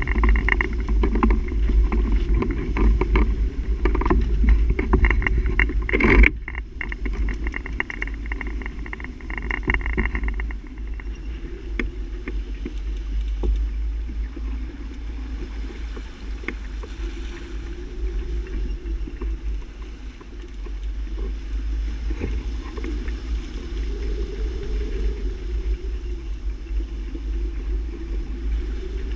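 Wind buffeting the microphone and water rushing along the hull of a sailboat under way, as a constant low rumble. There is a sharp, loud knock about six seconds in.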